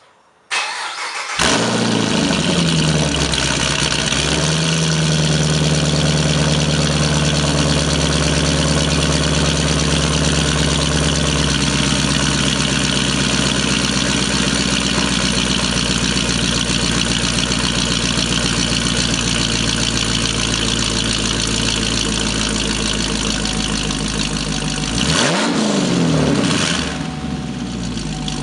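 2010 Chevrolet Camaro SS's L99 6.2-litre V8, breathing through high-flow catalytic converters and a Mach XL exhaust with J-pipes, cranks briefly and catches at a fast cold-start idle, which settles into a steady, deep idle within a few seconds. Near the end the throttle is blipped once, a quick rev up and back down.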